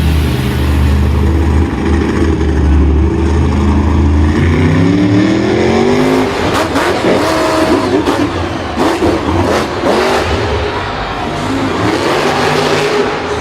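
Engine running and revving, its pitch climbing about four to six seconds in, then several wavering engine tones overlapping through the rest.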